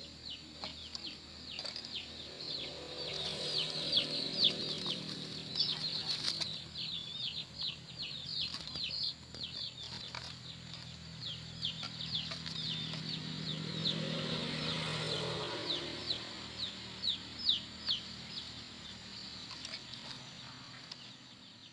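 Quail chirping: a dense run of short, high, downward-sliding chirps, several a second. A low hum swells and fades about two-thirds of the way through.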